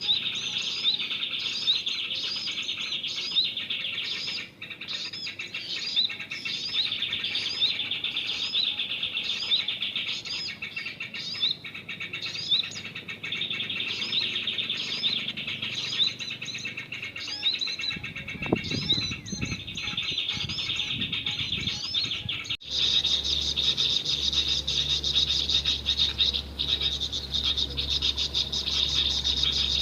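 Small birds chirping: a short rising chirp repeats about once a second over a dense twittering chorus, with a few low thuds near the middle. About two-thirds of the way in it cuts to a steady, dense insect buzz like crickets, over a low hum.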